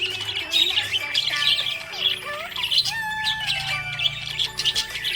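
Budgies chirping and warbling continuously, a busy stream of quick high chirps mixed with squawks and a few longer sliding notes.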